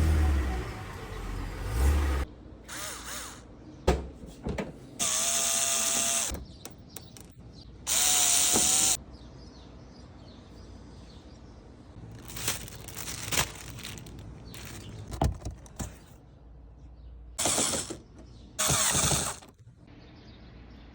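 A power tool running in four short bursts of one to two seconds each, with a whine under the whirr, and scattered knocks of tools and metal between the bursts.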